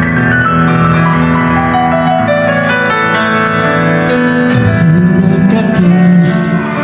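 Live piano playing a slow run of notes that steps downward over sustained bass notes, as an interlude between songs. A singing voice comes in softly about two-thirds of the way through.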